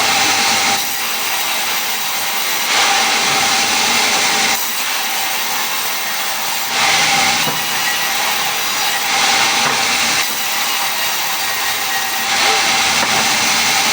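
Power saw cutting wood, its motor running steadily with a bright hissing burst of cutting every few seconds.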